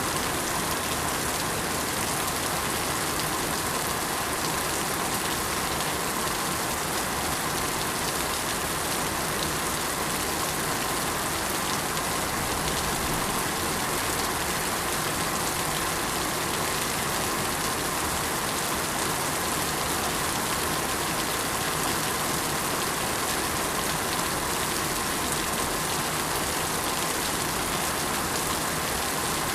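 Steady rain falling, an even hiss of many drops that does not change.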